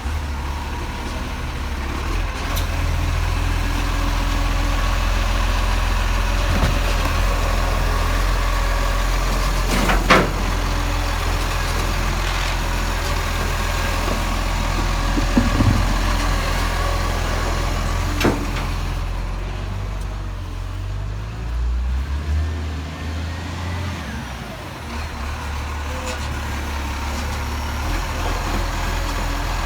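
Garbage truck engine running steadily, with a few sharp knocks about ten, fifteen and eighteen seconds in.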